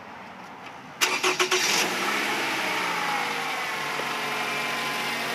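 2011 Toyota RAV4's 2.5-litre four-cylinder engine starting about a second in: a short burst of cranking that catches with a few quick surges, then settles into a steady idle whose pitch eases down slightly.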